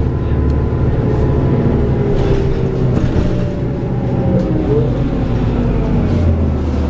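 Interior sound of a New Flyer D40LF city bus under way: its Cummins ISL six-cylinder diesel drones steadily, with a fainter whine from the ZF automatic drivetrain sliding in pitch as the bus changes speed.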